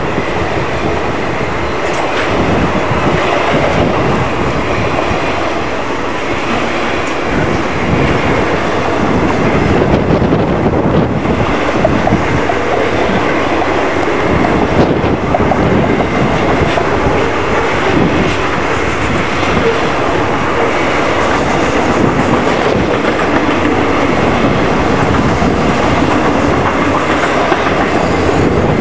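A long circus train's cars rolling steadily past at track side, their wheels clicking over the rail joints.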